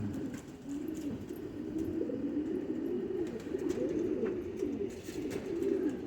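Several domestic pigeons cooing at once, a steady overlapping warble of low coos. These are cock pigeons calling in breeding season.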